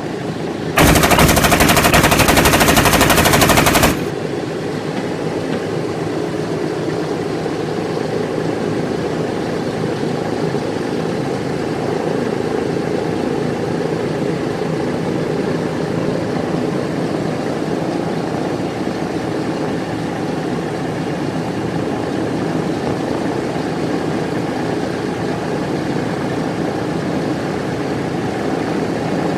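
A loud burst of rapid machine-gun fire lasting about three seconds near the start. It is followed by the steady drone of a propeller aircraft's piston engine running.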